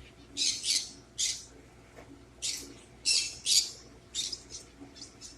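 Pet bird making a run of about ten short, scratchy, high-pitched chirps, spaced irregularly.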